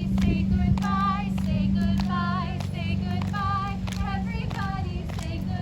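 Voices singing a song, with hand claps keeping a steady beat about twice a second, over a steady low hum.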